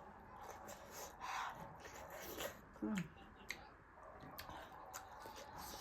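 Close-up eating sounds of a person chewing a large momo, with scattered soft mouth clicks and smacks. A short falling hum from the eater about three seconds in.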